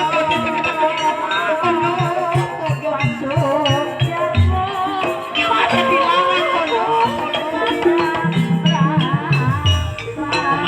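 Javanese gamelan music for an ebeg dance in campursari tuning: a wavering melody line over repeated low drum strokes and rattling percussion.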